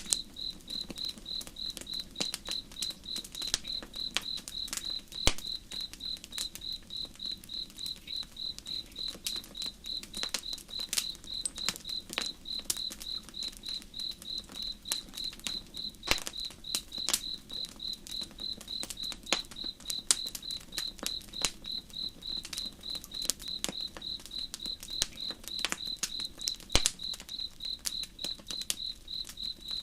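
Campfire crackling, with sharp pops scattered irregularly, over crickets chirping in a steady, even rhythm and a faint low rush of a slow river.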